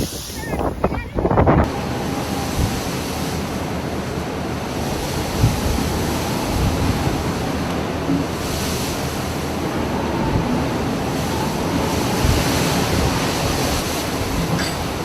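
Rough sea waves surging and crashing, with wind buffeting the microphone, as one continuous rush of noise.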